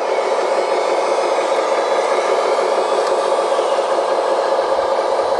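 Small electric pump on a 1/14-scale RC water truck running steadily, a constant whine over a hiss, as the truck sprays water to wet down the asphalt.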